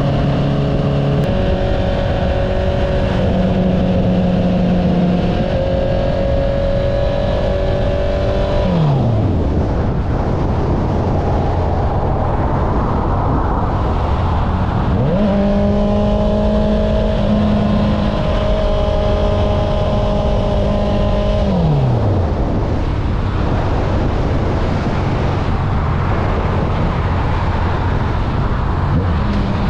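Honda CBR650R's inline-four engine through an Akrapovic exhaust, running at steady revs while riding. Its pitch falls off twice as the throttle closes, about nine and about twenty-two seconds in, with wind and road noise in between, and it climbs back up about fifteen seconds in and again near the end.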